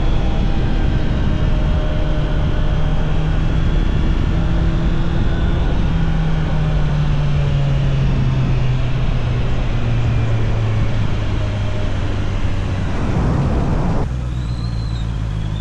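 Honda CBR650R's inline-four engine running under way with wind noise, its pitch falling slowly as the bike slows. About fourteen seconds in the wind noise drops away suddenly, leaving the engine running at a low steady note.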